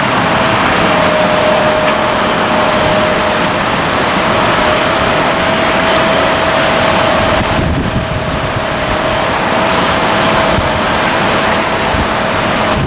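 Airliner jet engines running with a loud, steady roar and a held whine, dipping briefly about two-thirds of the way through.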